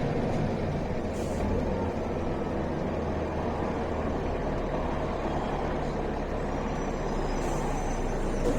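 Mercedes-Benz O405 city bus driving, heard from inside the passenger cabin: a steady diesel engine drone. There is a short hiss about a second in and another near the end.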